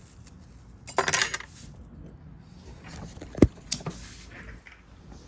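Small metal tools and parts clinking and knocking on a repair bench: a short rattle about a second in, then a sharp knock followed by two lighter clicks.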